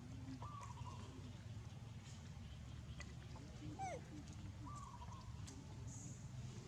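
Faint short squeaks from a young macaque, with one brief squeal sliding downward about four seconds in, over a steady low rumble.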